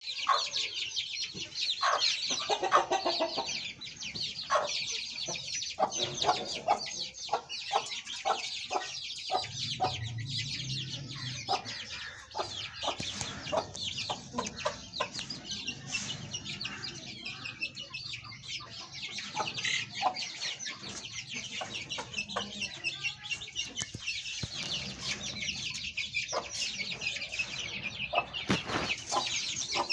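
A brood of Aseel chicks cheeping continuously, many high-pitched peeps overlapping, with lower clucks among them.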